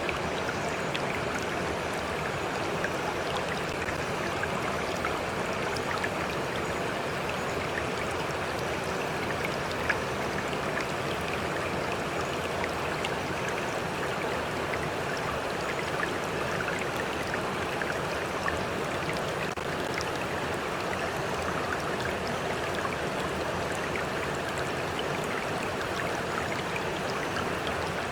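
Stream of water flowing steadily, with scattered small splashes and droplet ticks.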